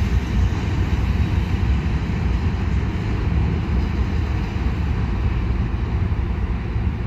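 Freight train of covered hoppers and boxcars rolling past on the rails, a steady low rumble of wheels and cars.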